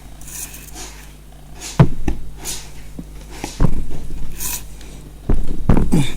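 Short, sharp knocks and clicks, about six spread unevenly through, from a plastic kitchen gas-stove lighter being handled while a screw in it is undone.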